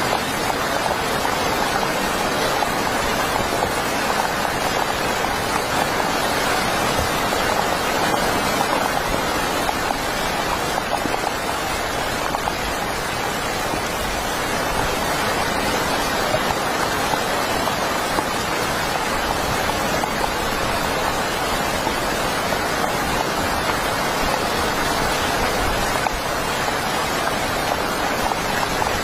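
Heavy rain falling steadily, a dense even hiss of drops with no breaks.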